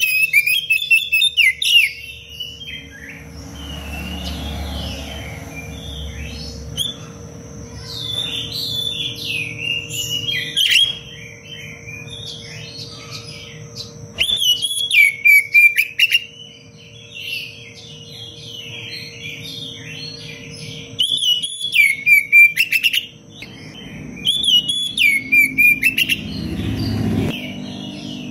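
Oriental magpie-robin (kacer) singing in bouts of fast, varied whistled phrases and rapid trills, with short pauses between bouts, over a faint steady hum.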